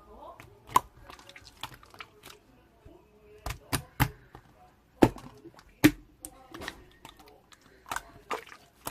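Slime being squeezed and poked by hand, making irregular sticky clicks and pops, with the loudest pops coming between about three and a half and six seconds in.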